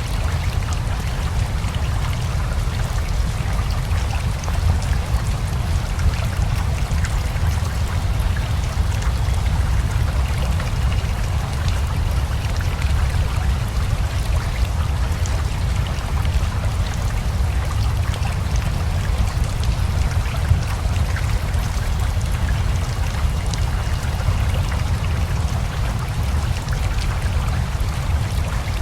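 Steady rain mixed with a flowing river: an even, unbroken wash of water noise with a deep low rumble underneath.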